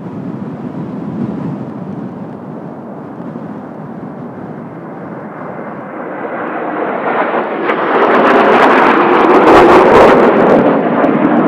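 Kawasaki T-4 jet trainers passing, their turbofan rush swelling from about six seconds in to a loud peak a couple of seconds later, then easing slightly near the end.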